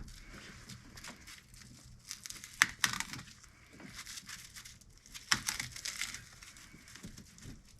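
Crinkling and tearing of wrapping or tape being handled and pulled off, in irregular bursts, loudest about two and a half to three seconds in and again around five and a half seconds in.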